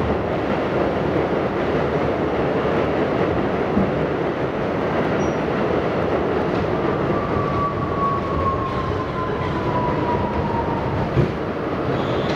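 R68 subway car running along the track, heard from inside: a steady rumble of wheels and running gear. A faint wheel squeal slides down in pitch from about seven to ten seconds in, and two short knocks come at about four and eleven seconds in.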